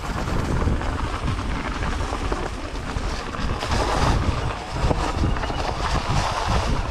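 Wind buffeting the camera's microphone while riding, a loud uneven rushing and rumbling.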